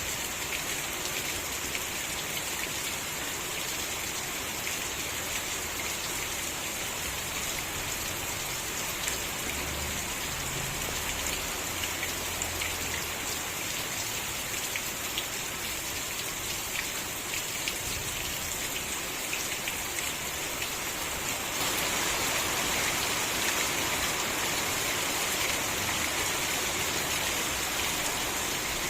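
Steady rain falling: an even hiss dotted with many small drop ticks. It grows a little louder about three quarters of the way through.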